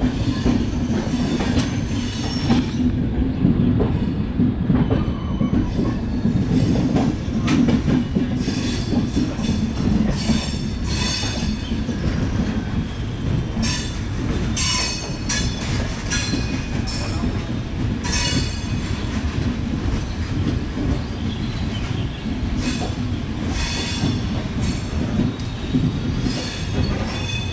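Express train coaches running on the rails: a continuous low rumble from the wheels and track, with scattered short high-pitched screeches and rattles.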